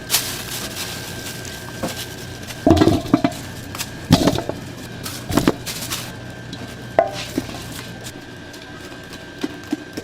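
Metal kitchenware clattering and knocking at a fried chicken stall: a handful of irregular clanks over a steady background with a faint high whine and a low hum.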